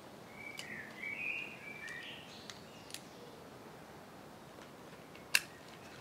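A small bird chirps and warbles for about two seconds, with a few light clicks around it. A single sharp click near the end is the loudest sound, fitting a climbing-harness buckle being handled.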